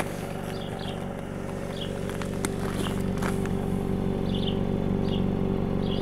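Seat Leon FR 1.4 TSI's turbocharged four-cylinder petrol engine idling steadily through its stock exhaust. A few short bird chirps sound over it.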